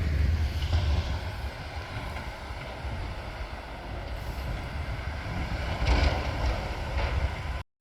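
Wind buffeting a phone's microphone outdoors: an uneven, gusting low rumble with a hiss of wind above it, cutting off abruptly near the end.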